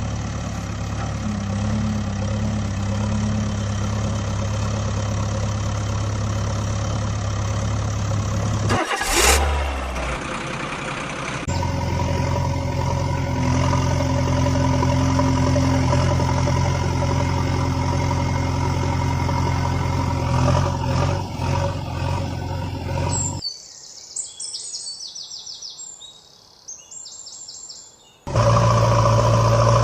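Vehicle engine running steadily, with a quick sweep up and down in pitch about nine seconds in. Toward the end the engine drops away to a quieter stretch with short high chirps, then comes back.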